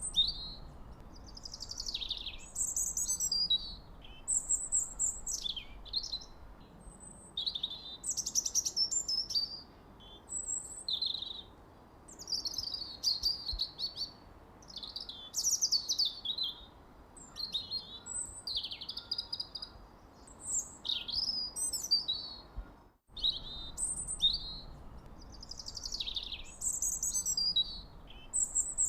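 Birds chirping and singing in quick, high, sweeping notes, phrase after phrase with hardly a pause, over a faint steady hiss. The sound drops out for a moment about two-thirds of the way through.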